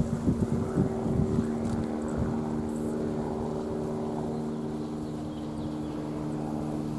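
A steady mechanical hum with several tones held level throughout, and a few soft low thumps in the first second and a half.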